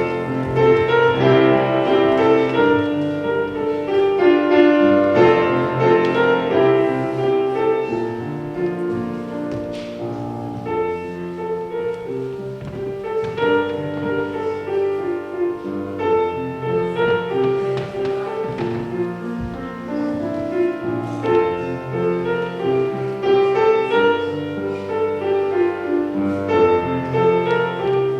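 Piano music, a steady run of pitched notes and chords.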